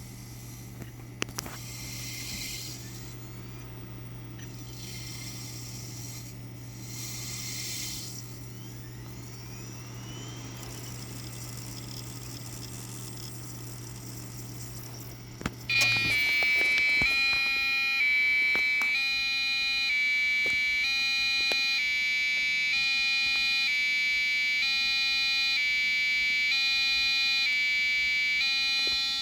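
A computer runs with a low steady hum. About sixteen seconds in, the eMachines K7MNF-64 motherboard starts a loud, shrill electronic buzzing. It keeps going, warbling between tones in a repeating pattern about once a second: the buzzing-noise fault on this board.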